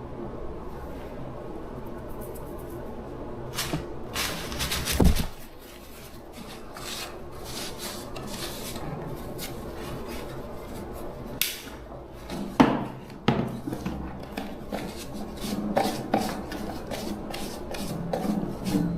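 Hand-tool work on metal parts: rubbing and scraping, with a louder stretch of scraping about four seconds in and scattered sharp knocks and clinks, several of them close together past the middle.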